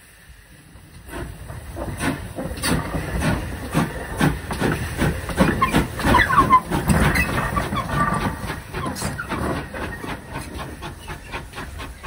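Pannier tank steam locomotive pulling away: its chuffing exhaust beats quicken from about two and a half to about five a second over a hiss of steam. The sound grows loudest about halfway through and then slowly fades.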